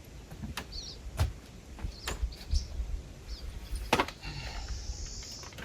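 A few sharp clicks and knocks, the loudest about four seconds in, with short high bird chirps between them and a brief hiss near the end, over a low outdoor rumble.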